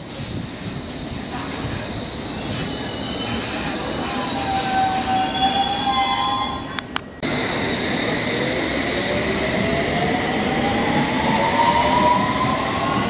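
Train at a station: high wheel squeal for the first half, a short break about seven seconds in, then a whine that rises steadily in pitch.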